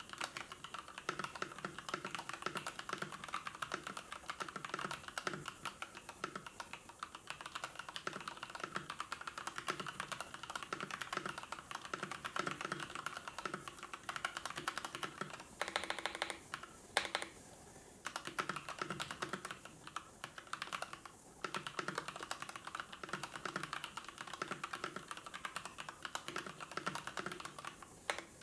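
Typing on a computer keyboard: a fast, continuous run of keystrokes, with a brief pause about two-thirds of the way through.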